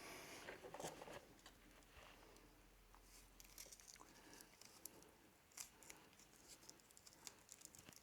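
Faint scratching, clicking and rustling of fingers working a roll of fabric tape, picking at it to find the end and peeling it off.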